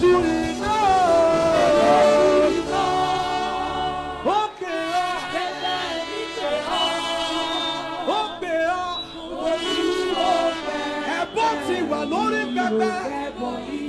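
Worship music: a man's voice sings long, gliding wordless phrases over a sustained musical backing.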